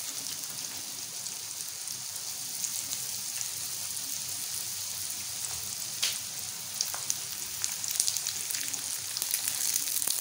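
Triangles of roti frying in hot oil in a wide frying pan: a steady sizzle with scattered crackling pops that come more often from about halfway through, with one sharper pop at that point.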